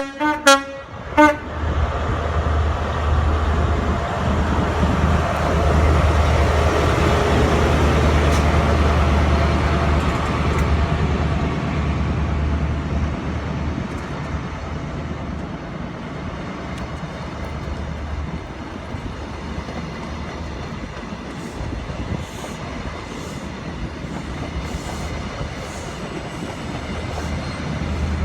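Train horn giving two short toots in the first second or so, followed by a train running through, its noise building to a peak about six to twelve seconds in and then easing off.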